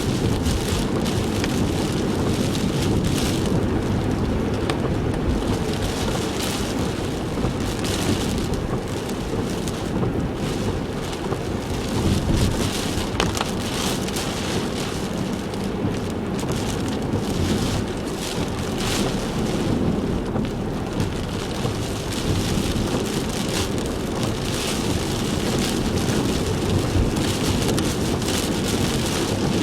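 Heavy typhoon rain on a car, over a steady low rumble of the car on the road, with the rain swelling and easing irregularly.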